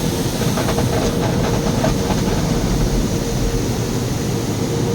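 Automatic car wash spraying water onto the car, heard from inside the cabin: a steady rushing hiss over a low rumble, with a faint steady hum from the wash machinery.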